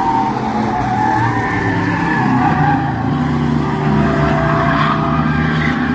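Bomber-class stock cars racing on the track, their engines running hard under load, with a wavering higher whine over the steady engine note.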